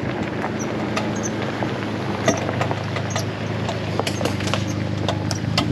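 Jeep Wrangler engine running steadily at crawling speed in four-wheel-drive low range, with irregular sharp clicks over it. The driver calls it a loud clicking and suspects the transfer case.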